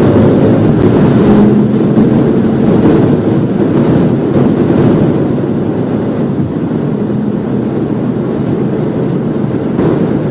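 Volvo V50 T5's turbocharged five-cylinder engine pulling under hard acceleration up to about 180 km/h, under a loud, steady rush of wind and road noise. The overall noise eases slightly about halfway through.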